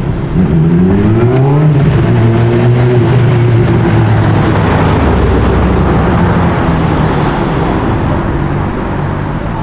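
A car engine revving up hard, its pitch climbing for about a second and a half, then running on loud and fairly steady, settling to a lower note about halfway through, with road noise.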